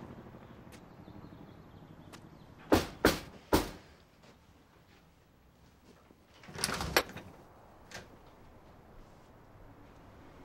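Three sharp knocks or bangs in quick succession, then a longer rattling clatter about three seconds later, with a single faint click after it.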